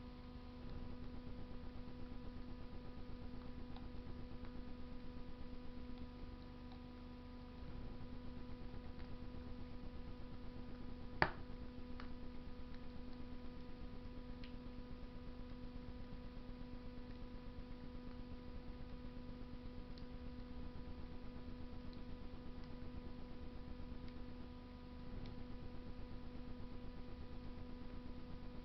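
Wood fire burning in a Russian stove: a low fluttering of flames with a few faint crackles and one sharp pop of the wood about eleven seconds in, over a steady electrical hum.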